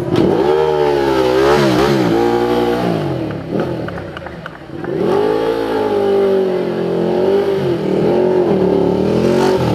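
Ducati V-twin motorcycle engine revving hard and held at high revs, its pitch wavering up and down, in two long spells with a brief drop about four seconds in.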